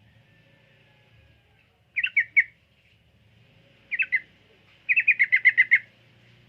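Yellow-vented bulbul (trucukan) calling in short chirping bursts: three quick notes about two seconds in, two more around four seconds, then a fast run of about eight notes near the end.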